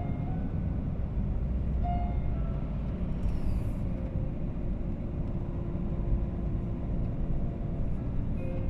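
Steady low road rumble of a car driving, engine and tyre noise heard from inside the cabin.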